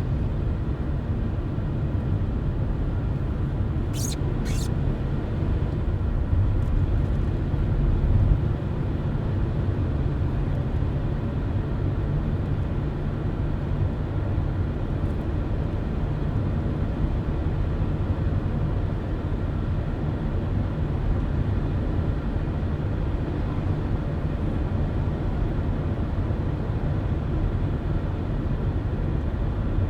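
Car driving at steady speed: continuous low road and engine rumble with tyre noise. Two short sharp clicks about four seconds in.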